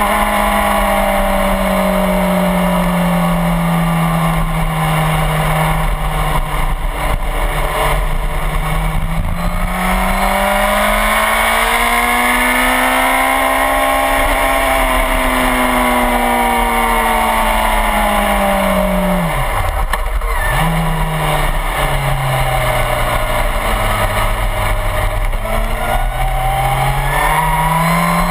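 Suzuki GSX-R1000 inline-four engine under way at track speed, its pitch easing and swelling through the corners. Engine speed drops sharply about two-thirds of the way through, then climbs steadily again near the end, over a constant rush of wind.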